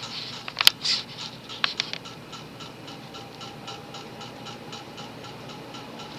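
Moss WF Series 42-inch ceiling fan with an oversized industrial-style spinner motor running on medium speed: a few sharp clicks in the first two seconds, then a steady, rapid, even pulsing with a faint hum. The motor seems to have a bad coil, which gives it a pulsing buzz.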